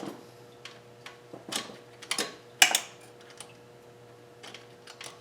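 Irregular light metallic clicks and clinks, one louder about halfway through, as a loosened turbocharger-to-manifold nut is worked off by hand. A faint steady hum runs underneath.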